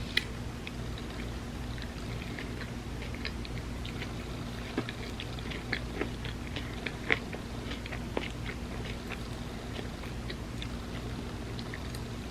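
Close-miked chewing of an ice cream sandwich: soft mouth sounds with many small scattered clicks and crackles, and a few sharper smacks, over a steady low hum.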